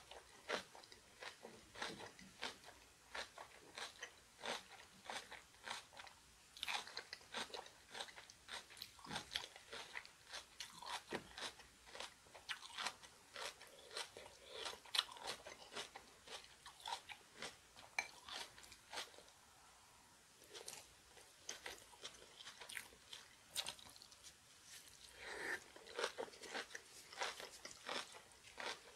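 A person biting and chewing crunchy spicy kimchi in a steady run of crisp crunches, with a short pause a little past two-thirds of the way through.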